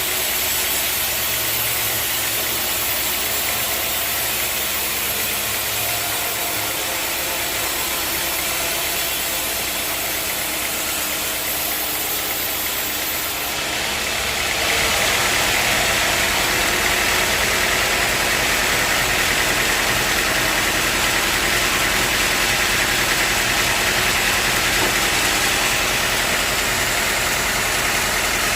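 Sawmill machinery running steadily. About halfway through, the sound jumps to a louder, brighter running noise and then holds.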